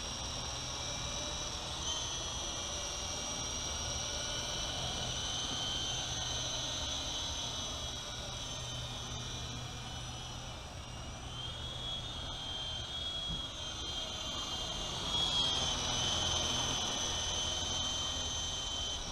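UDI U12A coaxial RC helicopter in flight: its electric motors and twin rotors give a steady high whine. The pitch shifts up and down a couple of times in the second half as the throttle and controls change.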